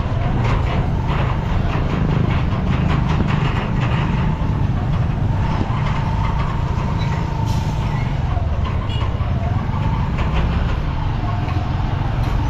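Motorcycle riding along a road, giving a steady low rumble with a faint whine that rises and falls.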